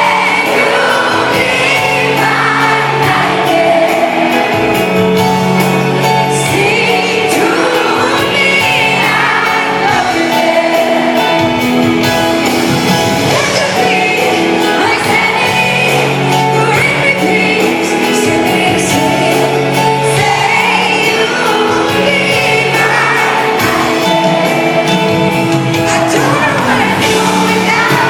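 Pop ballad sung live by a solo female singer over sustained instrumental chords, with the audience shouting and whooping along in a large hall.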